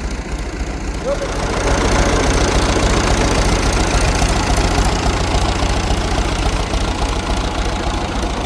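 A farm machine's engine running with a steady low rumble. It grows louder about a second and a half in as the machine moves up slowly.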